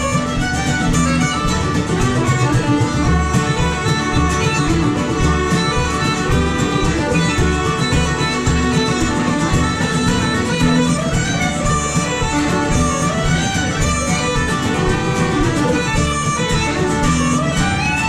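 Celtic band playing a lively tune: fiddle and guitar with the Red Diamond mandolin, over a steady strummed beat.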